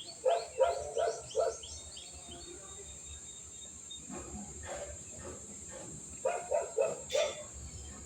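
Steady high-pitched drone of insects such as cicadas or crickets, with an animal calling in two quick series of about four short, loud calls, once near the start and again about six seconds in.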